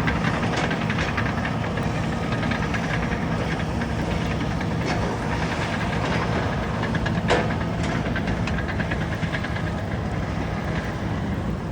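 Caterpillar bulldozer working: its diesel engine running steadily under a rapid metallic clatter, with one sharp knock about seven seconds in.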